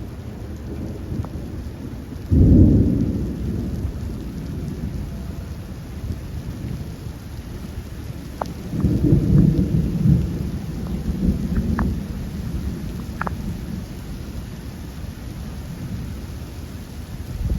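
Rain with thunder: a sudden low rumble about two seconds in and another rolling rumble about nine seconds in, over the steady noise of falling rain.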